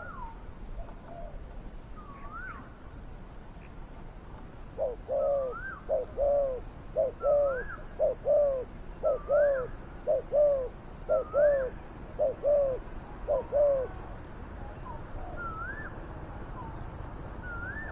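Spotted dove cooing: a loud run of repeated deep coos, paired notes about once a second, starting about five seconds in and stopping near fourteen seconds.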